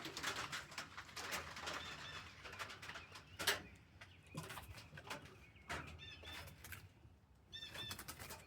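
A trapped small bird giving faint, short high chirps in little clusters, several times over, among scattered taps and rustles.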